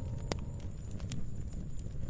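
Wood fire crackling: a handful of sharp, irregular pops and snaps over a low steady rumble.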